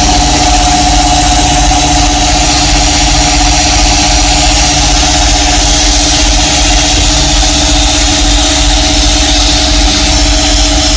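A workshop power tool's motor running steadily at one speed, with a steady hum and a low, even throb.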